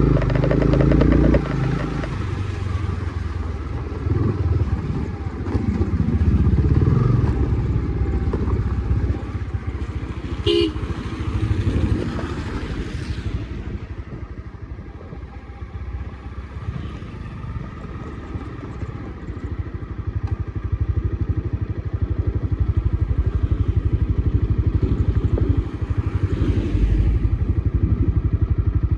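Honda CB300R's single-cylinder engine running while the motorcycle is ridden, easing off through the middle and picking up again toward the end. A brief sharp sound comes about ten seconds in.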